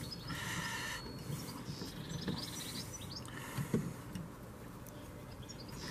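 Quiet outdoor background with small birds chirping now and then, and a brief rasping noise under a second in.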